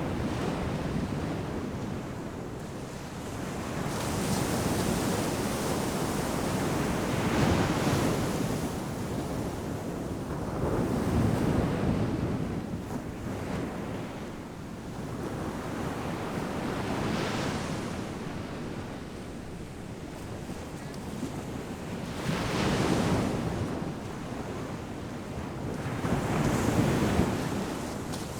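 Ocean surf breaking on a sandy beach: a steady wash of waves that swells to a louder crash every four to six seconds and eases back between, with some wind on the microphone.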